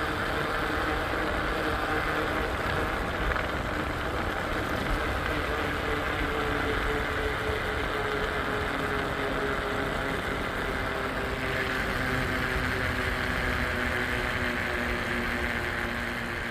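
Bicycle riding along the road: steady tyre and wind noise with a hum that slowly drops in pitch.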